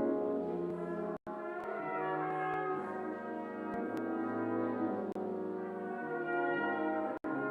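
Brass quintet of trumpets, horn and trombone playing sustained chords in a slow piece. The sound cuts out for an instant twice, about a second in and near the end.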